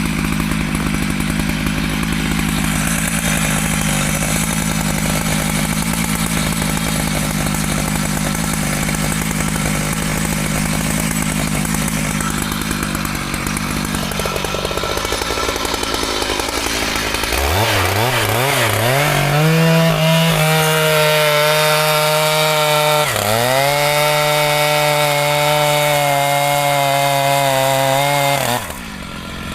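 Two-stroke chainsaw running low and steady, as if under load in the wood, for about fourteen seconds. Then it revs sharply up, its pitch wavering before it settles at high speed. It dips once and cuts off abruptly near the end.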